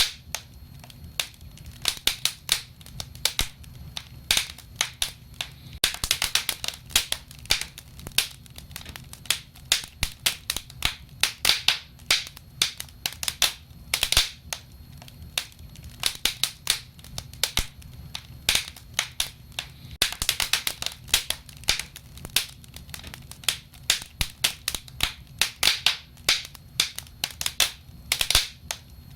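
Wood fire burning, with frequent sharp crackles and pops coming in quick clusters over a low, steady rumble of the flames.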